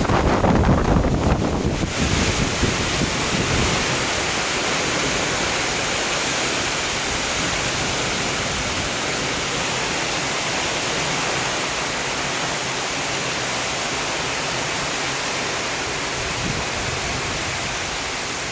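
Strong typhoon wind blowing as a steady rushing hiss, with low buffeting on the microphone in the first two seconds.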